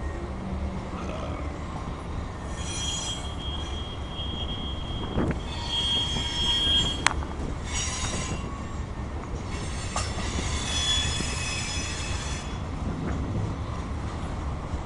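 Cars of a CSX mixed freight train rolling past with a steady low rumble. The wheels squeal in several high-pitched bursts, and there is one sharp clank about seven seconds in.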